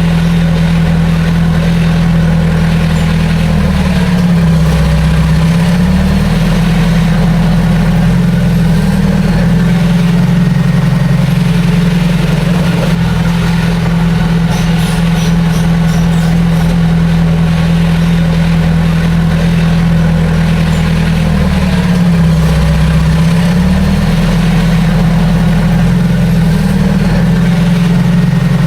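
Bulldozer's heavy diesel engine running steadily at working revs. Its pitch sags briefly twice, about four seconds and about twenty-two seconds in, then recovers.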